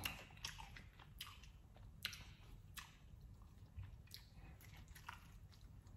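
Faint close-up chewing of a mouthful of shrimp and grits, with scattered soft, wet mouth clicks every second or so.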